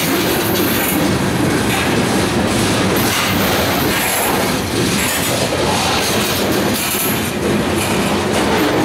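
Freight cars (tank cars and covered hoppers) rolling past at close range: steel wheels on the rails make a loud, steady rolling noise, with scattered knocks as the wheels and trucks pass.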